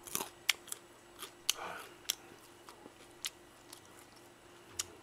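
A person chewing crisp fried chicken close to the microphone: scattered sharp crunches and mouth clicks at an uneven pace, over a faint steady hum.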